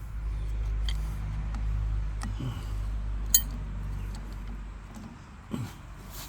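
A low steady rumble that eases off after about four seconds, with one sharp metallic clink a little past the middle and a few lighter taps of metal.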